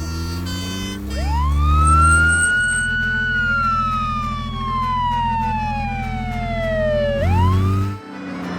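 A siren winds up over about two seconds, falls slowly for about four seconds, then starts to rise again near the end, over the steady rumble of an idling engine.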